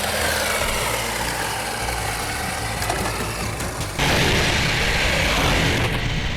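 Toy-grade RC drift cars racing, their small electric motors and tyres running steadily on the pavement. The noise jumps suddenly louder about four seconds in.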